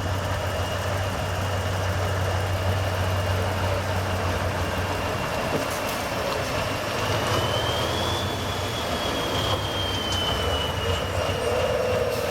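Off-road truck engine running steadily, with a high whine that rises about seven seconds in and then slowly falls back.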